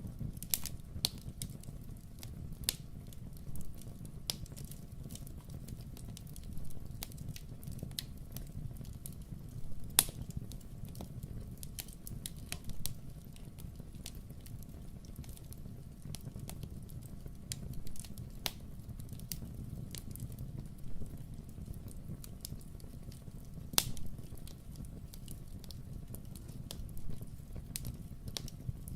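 Wood fire crackling in a fireplace: irregular sharp pops and snaps over a low steady rumble, with two louder pops about ten seconds in and near the end.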